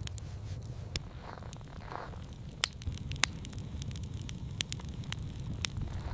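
Irregular sharp crackles and pops over a low steady rumble.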